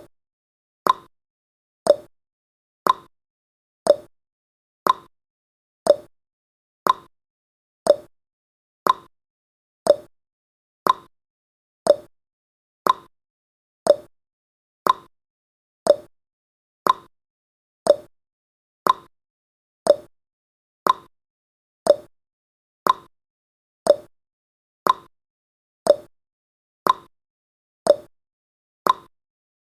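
Clock-like ticking sound effect of a countdown timer: one short, sharp tick every second, evenly spaced.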